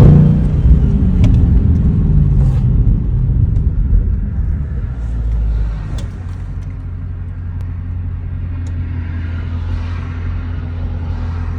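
V8 car engine coming down from a rev with a low rumble that drops off about six seconds in, then idling steadily.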